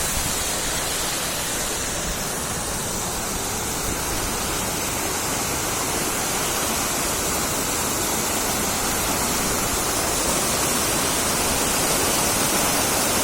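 Steady rushing of river water flowing beneath a bamboo bridge, a constant even hiss that grows slightly louder toward the end.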